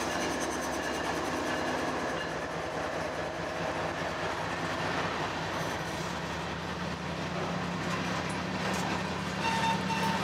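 Freight train of open-top hopper cars rolling past: a steady rumble of steel wheels on the rails. Faint high squealing tones from the wheels ride over it, with a short clearer squeal near the end.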